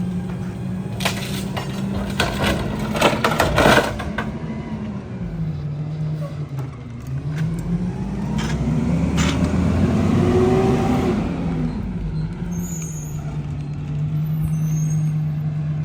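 Mack MRU rear-loader garbage truck compacting bulk trash: a burst of sharp cracks and crunches as the packer breaks up the load in the hopper, then the diesel engine dips, revs up and back down over several seconds for the packing cycle before settling to a steady idle.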